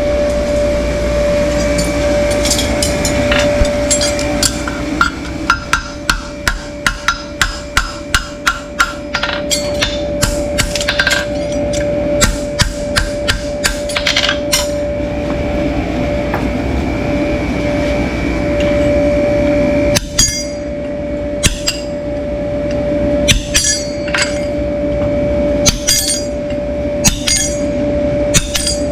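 Hammer strikes with a metallic clink: a quick, even run of about three blows a second for several seconds, then irregular single strikes. A steady hum sounds underneath.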